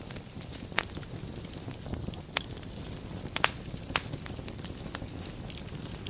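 Wood fire burning in a fireplace: a steady low rush with sharp crackling pops scattered through it, the loudest about three and a half seconds in.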